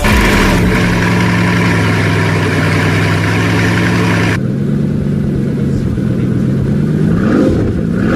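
Car engine running with a steady note; the hiss over it drops away abruptly about halfway through, and near the end the engine note climbs as it revs up.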